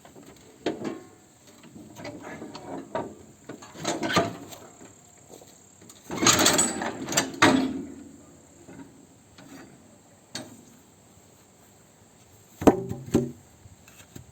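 Hand tools tightening the fasteners on a mower deck: irregular metallic clicks and clunks, with a louder stretch of knocking and scraping about six to seven and a half seconds in and two sharp knocks near the end.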